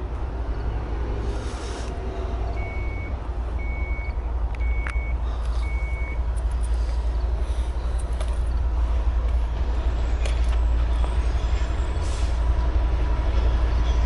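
Approaching train rumbling low, slowly growing louder as it nears. A few seconds in come four short high electronic beeps about a second apart.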